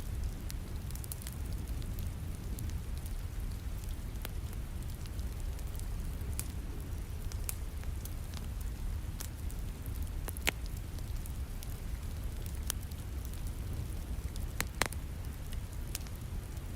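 Wood fire crackling with scattered sharp pops over a steady hiss of falling rain; two louder pops about ten and fifteen seconds in.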